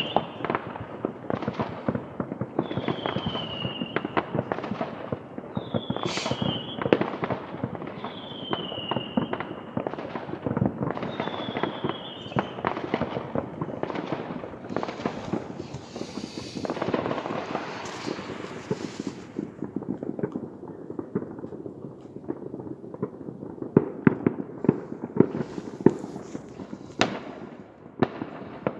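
Many fireworks going off at once, a dense, continuous crackle of bangs and pops. Several short whistles falling in pitch are heard in the first half, a rushing hiss comes around the middle, and louder sharp bangs come near the end.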